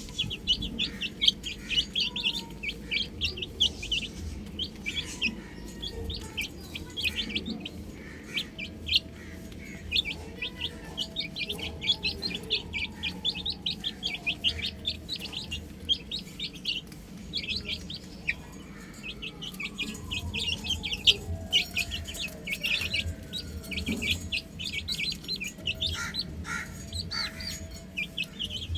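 Baby chicks chirping continuously in rapid, high-pitched peeps, several birds at once.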